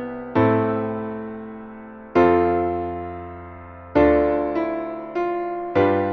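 Piano accompaniment playing slow chords, each struck and left to ring and fade. The chords come about two seconds apart at first and closer together after about four seconds.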